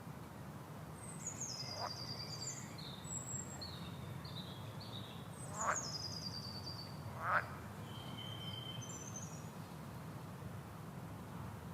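Songbirds singing: high, descending trilled phrases repeated every second or two, with two short, louder chirps about six and seven seconds in, over a steady low background hum.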